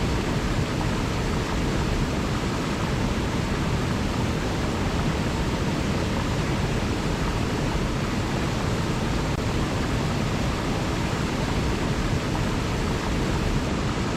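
River water rushing steadily: an even, unbroken wash of noise, heaviest in the low end.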